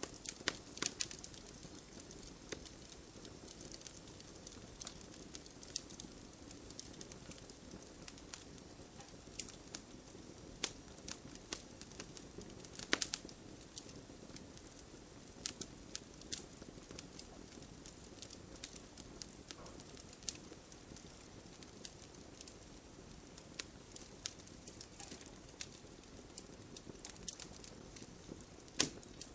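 Wood bonfire crackling, with irregular sharp pops and snaps over a soft, steady patter of rain. The loudest pops come about a second in, near the middle and near the end.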